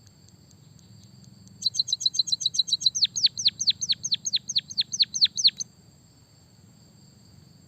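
Songbird singing a rapid trill lasting about four seconds: a run of quick high chirps that turns into a series of sharply falling whistled notes. A faint steady high tone runs underneath.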